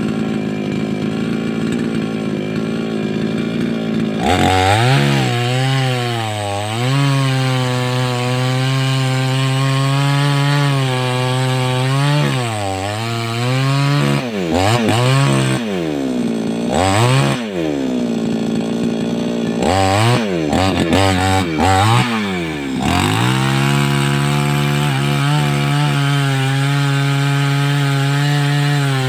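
A 588X chainsaw cutting through a large tree: steady running for the first few seconds, then a louder cut about four seconds in where the engine pitch repeatedly sags and recovers as the chain bites into the wood. It settles into steady running near the end.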